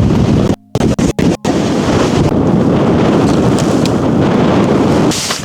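Strong wind buffeting the microphone: a loud, steady low rumble. It cuts out briefly a few times in the first second and a half.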